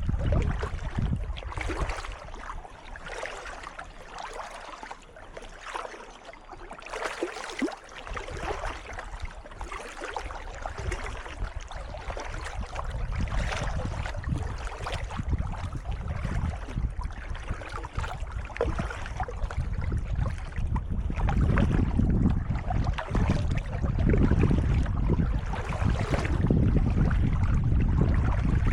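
Kayak paddle blades dipping and splashing in calm water, one stroke about every second and a half, over a low rumble of wind on the microphone.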